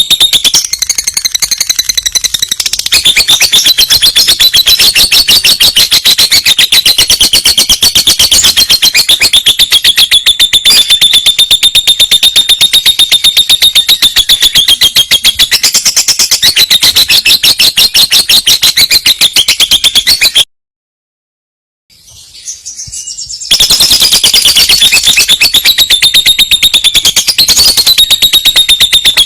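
Lovebird singing a long roll: a loud, very rapid, high-pitched chattering trill. It breaks off abruptly about 20 seconds in and starts again some three seconds later.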